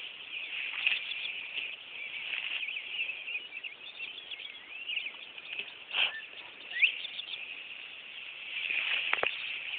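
Birds chirping and singing, many short rising and falling calls overlapping, with a brief knock or two partway through.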